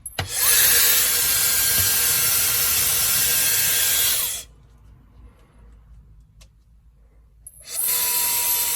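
Compact hair dryer with a high-speed brushless (BLDC) motor switched on and blowing: a steady rush of air with a faint high whine. It cuts off after about four seconds and starts up again near the end.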